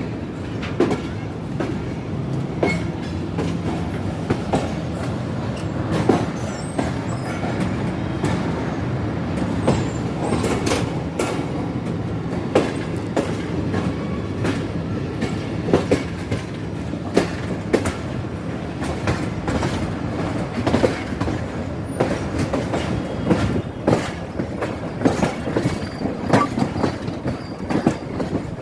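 Pakistan Railways passenger train running on the rails: a steady low rumble with wheels clacking and knocking irregularly over rail joints, with some squeal of wheels.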